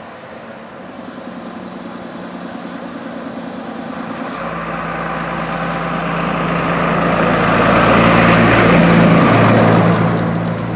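Fire engine's diesel engine driving past, getting steadily louder as it approaches. It peaks about nine seconds in, then drops in pitch and fades as it passes.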